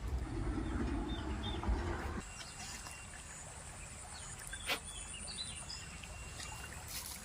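Outdoor ambience with a few short bird chirps. A low rumble for the first two seconds stops abruptly, and a single sharp tap comes about two-thirds of the way through.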